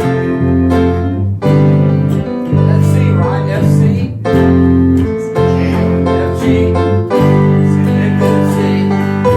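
Live band music: a keyboard holding sustained chords that change every second or so, with guitar.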